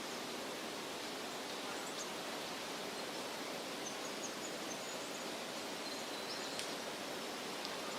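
Steady rustle of wind through leafy trees, with a few faint, short, high bird chirps scattered through it.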